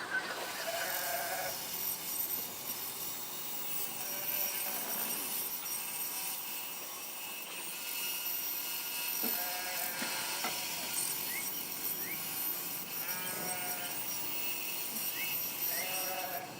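Power saw running and cutting a thin cedar board into 2-inch pieces, with a short whining tone every few seconds as each cut is made.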